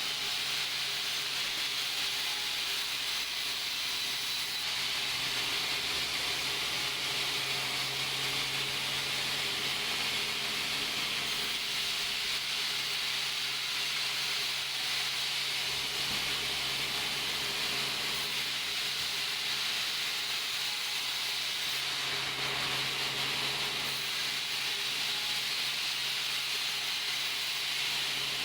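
Sawmill machinery running steadily: a continuous high hiss over a steady low hum, unchanging throughout.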